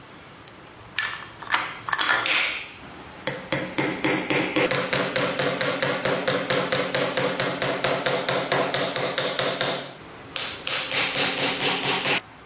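Rapid, even hammering strikes, about five a second, with a ringing tone under them, in two runs split by a short pause near the end.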